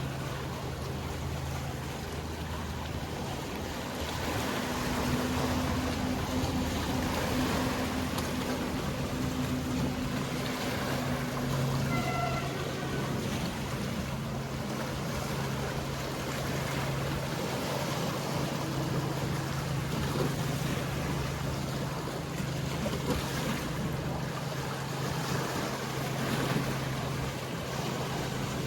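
Boat engine humming steadily over the wash of sea water, with a second, higher engine tone joining from about four seconds in until about twelve seconds in. A brief faint high chirp sounds about twelve seconds in.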